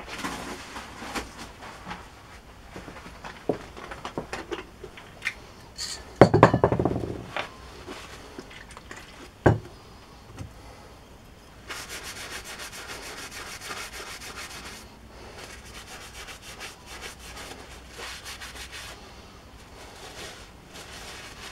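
Hand rubbing and wiping over a small electric-motor part, cleaning it with methylated spirit, with clicks and knocks as the part is handled. A louder clatter comes about six seconds in, a sharp knock a few seconds later, and in the second half quick, steady rubbing strokes.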